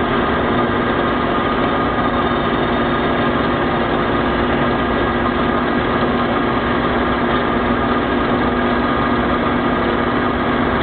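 Industrial metal-cutting band saw running steadily while cutting a round metal bar, a continuous machine hum with several held tones.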